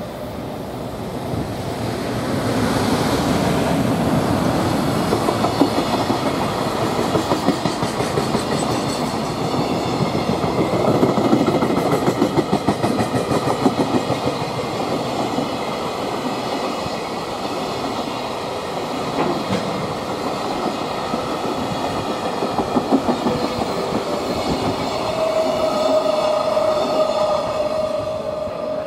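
Silver EF510-500 electric locomotive passing with a long container freight train. The sound swells over the first few seconds as the locomotive goes by, then comes the steady, rhythmic clickety-clack of the container wagons' wheels over the rail joints.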